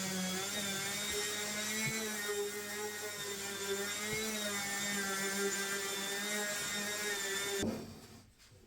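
CNC router spindle running at speed while cutting wood, a steady whine that wavers slightly in pitch under load; it cuts off suddenly near the end.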